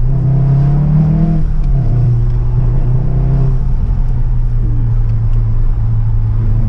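Mk7 Golf R's turbocharged 2.0-litre four-cylinder running through a Milltek cat-back exhaust. Its pitch rises a little in the first second or so, drops back, and then holds steady.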